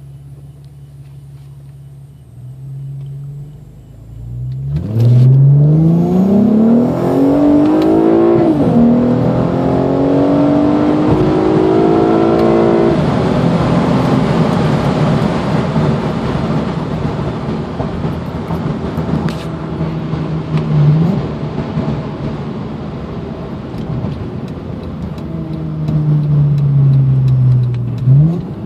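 Honda J35Z2 3.5-litre V6 with cold-air intake, long-tube J-pipe and Greddy dual catback, heard from inside the cabin on a wide-open-throttle pull through an automatic transmission. The engine runs low and steady, then about four seconds in it climbs in pitch as it revs. The pitch drops at upshifts about eight and thirteen seconds in, and a loud intake and exhaust roar follows. Near the end it eases off, falling in pitch, with a brief rev blip.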